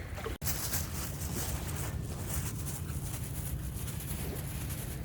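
Outdoor wind noise with a heavy low rumble on the microphone, a steady rushing haze, broken by a short dropout about half a second in.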